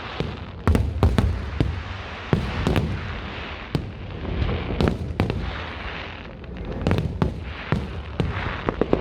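Fireworks display: a rapid series of sharp bangs and booms from bursting shells, with crackling and hiss between them.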